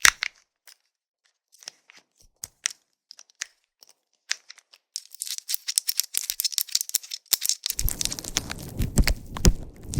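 Sparse, light clicks of a plastic magic bracelet being handled close to the microphone, turning into dense crackling about halfway through. Near the end, a microphone windscreen rubbed together with cellophane tape adds a low, rumbling scratch right on the mic under the crackle.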